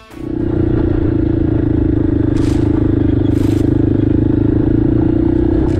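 Single-cylinder dual-sport motorcycle engine running at a steady pace, picked up by the rider's camera. Two brief scratchy hisses come about two and a half and three and a half seconds in.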